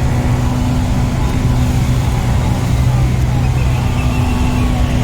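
Road traffic: vehicle engines running with a steady low hum. About halfway through, a short falling tone starts repeating roughly twice a second.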